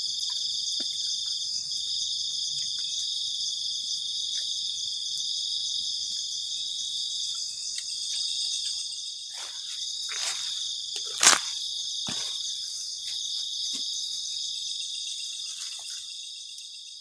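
A steady, high-pitched chorus of crickets in the forest at night. A few short clicks and knocks come over it in the second half, the sharpest about eleven seconds in, and the chorus fades out at the end.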